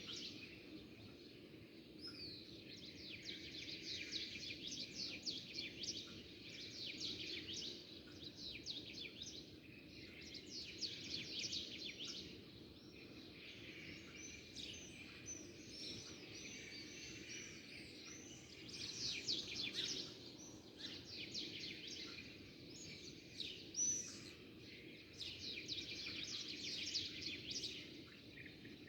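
A flock of small birds chirping and twittering together in a dense, continuous chorus of quick high chirps, over a faint steady low background hum.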